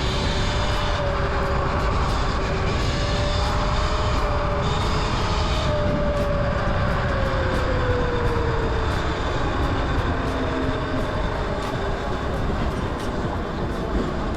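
Electric dirt bike on the move: steady wind and road rush with a thin motor whine that drops in pitch about six to nine seconds in, as the bike slows.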